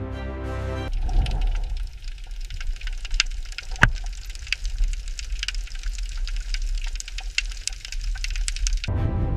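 Dense crackling and popping clicks over a deep low rumble, starting about a second in and stopping suddenly near the end, with one sharper crack near the middle.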